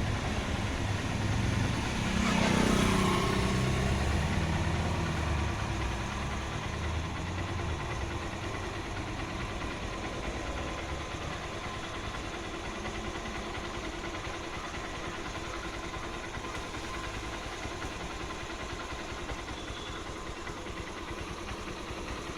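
A motor vehicle passing close about two to four seconds in, followed by a steady engine hum that slowly fades.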